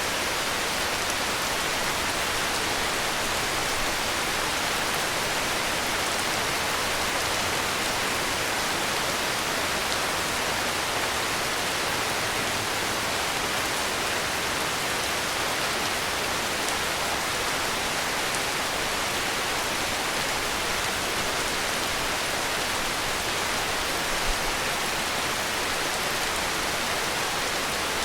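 Heavy rain falling steadily, an even hiss with no single drops standing out. A single soft low thump about three-quarters of the way through.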